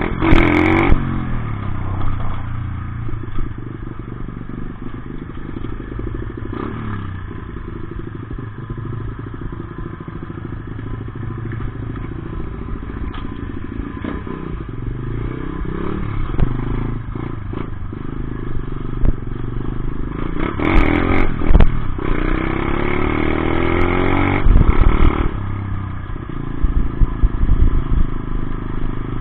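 Dirt bike engine running and revving up and down several times. The hardest revving comes about two-thirds of the way through, with a shorter burst at the start.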